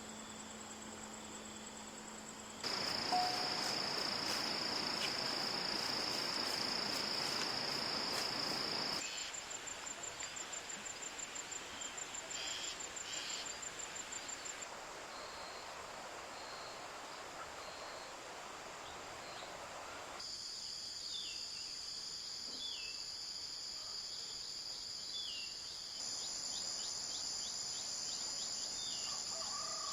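Insects trilling steadily at a high pitch, with short chirping bird calls in the second half. The background changes abruptly several times, including a louder stretch of even hiss from about 3 to 9 seconds in.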